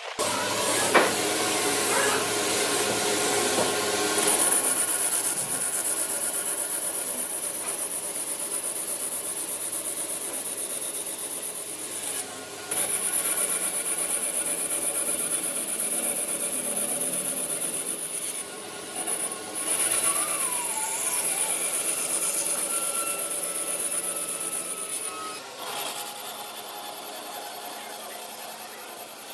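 Wood lathe running with a tool scraping against the spinning wood. The scraping stops briefly a few times.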